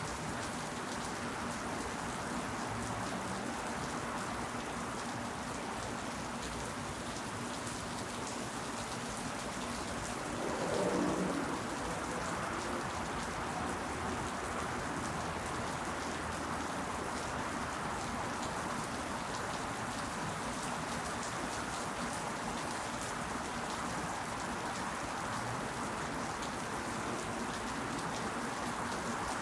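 Steady rain falling, an even hiss of many drops. About ten seconds in a brief, deeper swell rises over it for about a second and fades.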